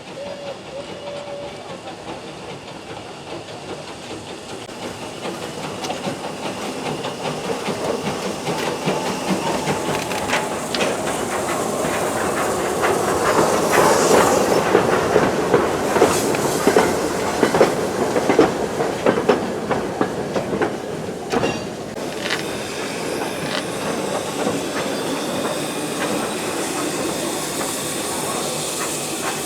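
Heritage steam train running on the line, its wheels clattering over the rail joints with a hiss of steam. It grows louder to a peak about halfway through, then eases off.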